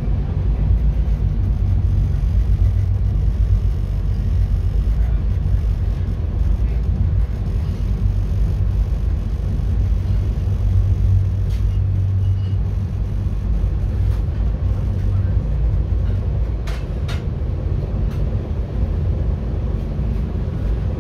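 Steady low rumble inside a moving VIA Rail Park observation car, its wheels running on the track, with a few faint clicks in the second half.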